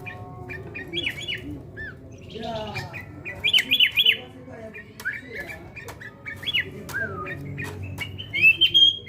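Sooty-headed bulbul calling in short chirping phrases that glide up and down in pitch, with the loudest bursts about three and a half and eight and a half seconds in; sharp clicks come in between.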